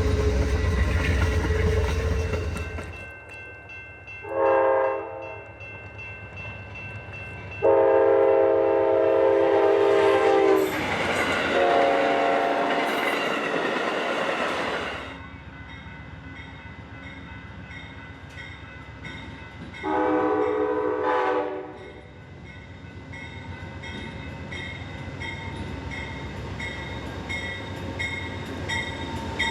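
A train passing with a low rumble, and its locomotive horn sounding four blasts: a short one, two long ones and a shorter one. A faint regular chime repeats in the last several seconds.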